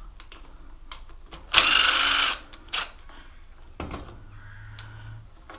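Power drill running in one short burst of under a second, about a second and a half in, while the front brake is being taken off the bike. Light clicks and knocks of handling come around it.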